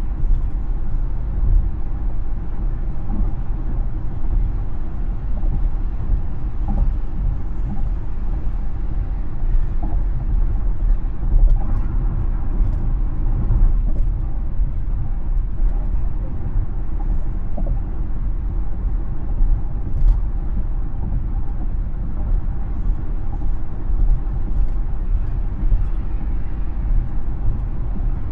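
Tesla electric car driving at a steady speed: a continuous low tyre and road rumble with no engine sound.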